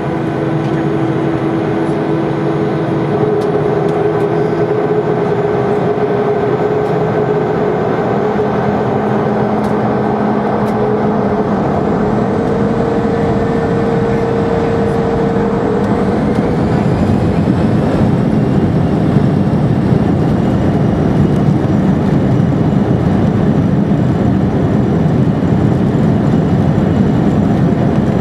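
Boeing 747 jet engines heard from inside the cabin: a steady roar with several whining tones. From about halfway through, the whine rises in pitch and the roar grows louder as the engines spool up for takeoff.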